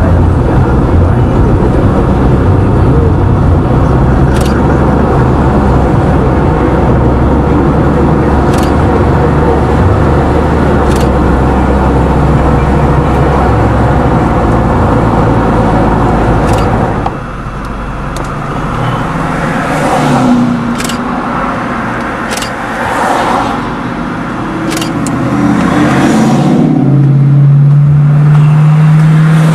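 A car driving: steady road and engine noise that drops off suddenly about seventeen seconds in, followed by a few light knocks and, near the end, an engine note that rises as the car accelerates.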